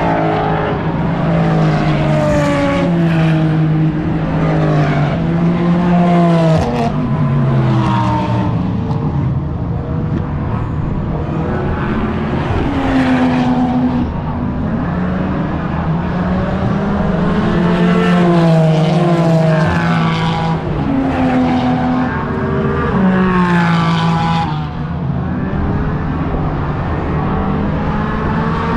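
Race car engines running on a circuit, one car after another, their pitch rising and falling as they accelerate and slow.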